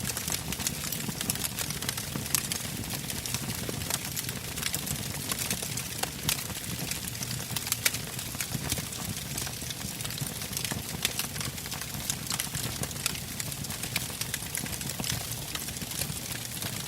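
Wood fire burning: logs crackling with frequent, irregular sharp snaps over a low steady rumble of the flames.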